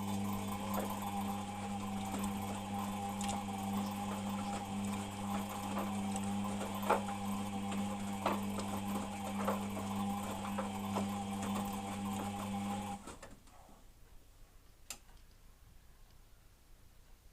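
Beko WMP 601 W washing machine's motor turning the drum on a wash cycle: a steady hum with sharp clicks here and there, stopping suddenly about 13 seconds in. The machine has a slight grinding noise when the drum turns, which the owner cannot explain.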